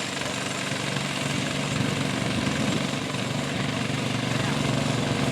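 An engine running steadily with a rapid pulsing drone, getting louder about a second and a half in.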